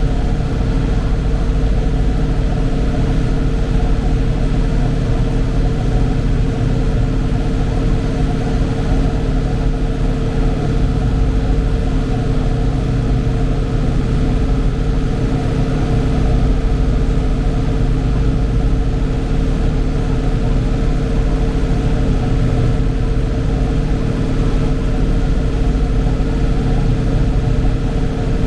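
Tractor engine running steadily at constant speed, a loud even drone with a low rumble.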